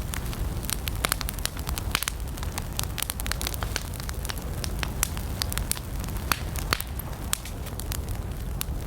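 Wood campfire burning, crackling and popping irregularly over a steady low rumble of the flames.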